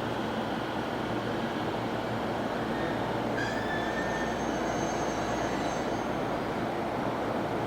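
Electric commuter train running along a station platform, a steady rumble of wheels on rail, with a thin high squeal from the wheels starting about three seconds in and fading after a few seconds.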